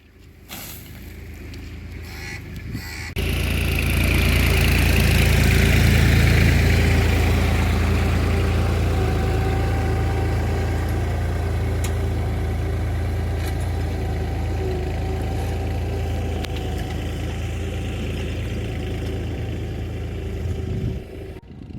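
New Holland 5500 tractor's diesel engine running steadily, coming in loud and abrupt about three seconds in and dropping away just before the end.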